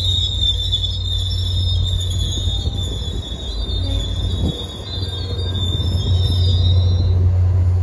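MBTA commuter rail train's bilevel coaches rolling past close by, with a steady low rumble and a high-pitched wheel squeal that fades away near the end.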